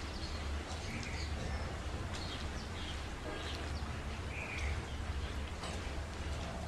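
Small birds chirping now and then over a steady low hum, with a few faint clicks from chewing.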